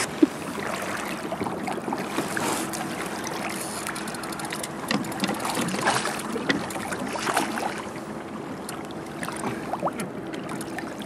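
River water running and splashing, with irregular sharper splashes throughout.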